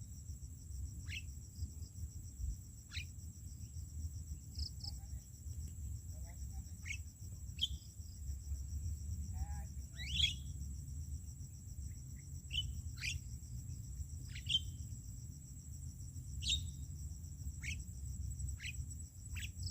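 A bird giving short, sharp calls that sweep down in pitch, about a dozen of them at one- to two-second intervals, over a steady high-pitched insect buzz like a cricket's and a low rumble.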